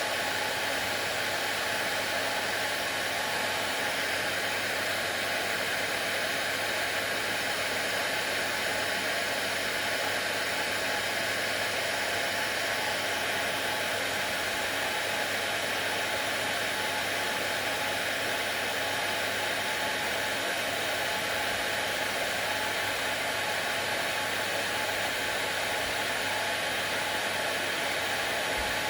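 Hair dryer running continuously: a steady, even blowing noise with a faint motor hum and no change in level.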